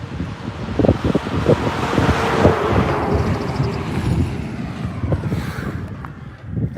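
Strong storm wind buffeting the microphone of a moving vehicle, irregular low thuds under a rushing noise that swells in the middle and eases toward the end.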